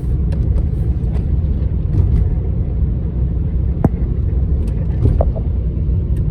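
Van driving along the road: steady low rumble of engine and tyres, with scattered small clicks and a couple of brief squeaks.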